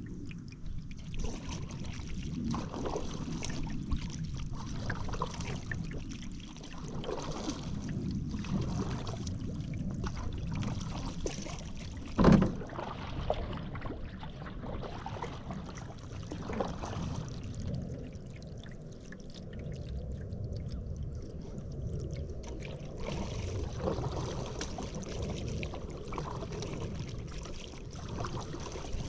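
Paddle strokes splashing and dripping in river water, a swish about every second or two, with one sharp knock about twelve seconds in.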